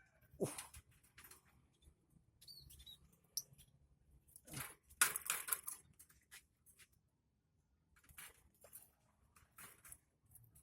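Scattered clicks, scrapes and rustles from handling a lovebird cage and nest box, busiest about five seconds in, with a few short high bird chirps about three seconds in.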